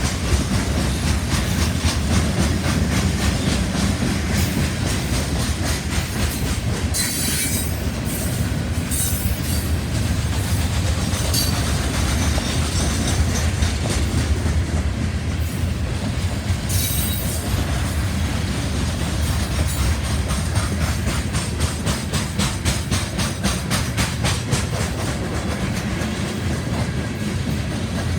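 Cars of a BNSF coal train rolling past, the wheels clicking rhythmically over the rail joints under a steady rumble. A few brief screeches of wheel against rail come in the first half.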